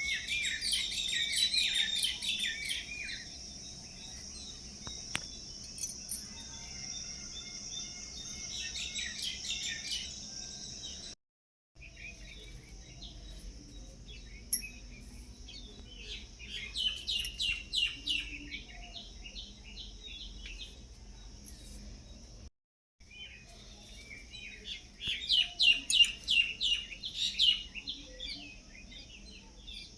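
Small birds singing in bursts of rapid chirping phrases over a steady, high-pitched insect drone. The sound cuts out abruptly for a moment twice.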